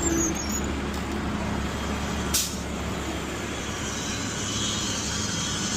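Front-loader garbage truck's diesel engine idling steadily, with one brief hiss about two and a half seconds in.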